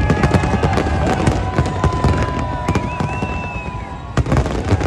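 A fireworks display: a dense run of bangs and crackling pops over a low rumble, with a sharp bang a little after four seconds in. Steady high whistling tones run through the middle of it.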